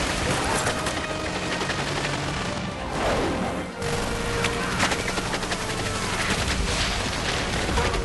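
Dense automatic gunfire in a film battle soundtrack: many rapid shots overlapping without pause. About three seconds in, a sound drops sharply in pitch.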